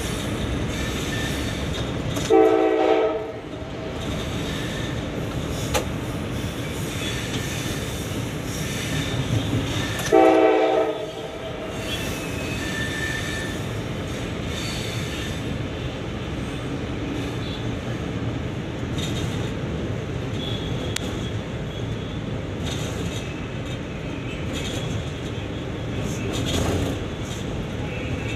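Passenger train running along the track with a steady rumble, its horn sounding two short blasts about eight seconds apart.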